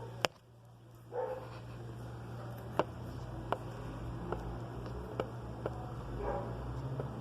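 Sharp clicks or clinks at irregular intervals, about a second apart, over a steady low hum, with a couple of brief soft sounds about a second in and near the end.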